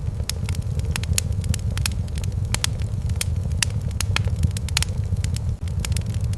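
Wood fire crackling in a fireplace: frequent irregular pops and snaps, several a second, over a steady low rumble.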